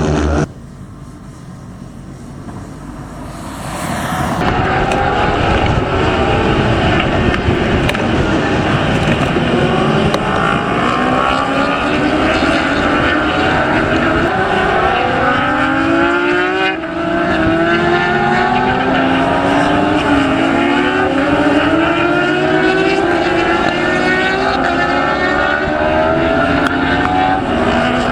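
Racing motorcycles at full throttle: several engines at once, each pitch climbing and dropping back as the riders shift up through the gears. The sound is quieter for the first few seconds, then loud once the bikes are close.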